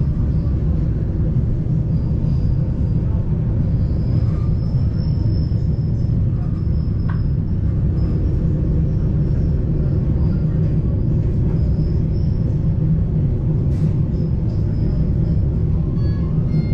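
Montserrat rack railway train running, a steady low rumble with a faint high whine drifting over it.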